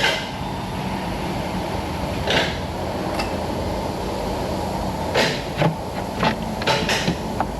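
A steady low hum of shop background with a few scattered short clicks and knocks of hand tools on engine parts, as nuts are taken off the intake manifold.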